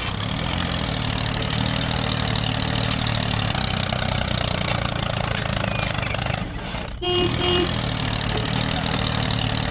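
A vehicle engine sound runs steadily at an even idle. About seven seconds in, a horn gives two short toots.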